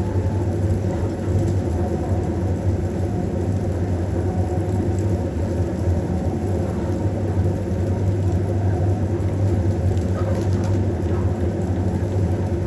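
Steady, continuous low machine hum with an even pitched drone.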